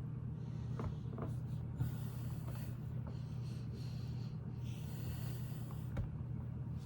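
Lego pieces being handled, giving a few light plastic clicks over a steady low hum. A soft breathy hiss runs through the middle.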